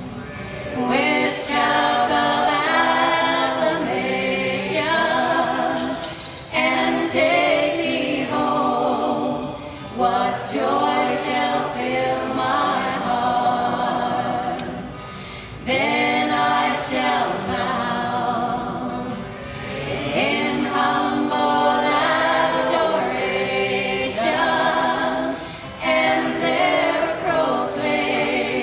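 Three women singing together in harmony into microphones, holding long notes in phrases a few seconds long.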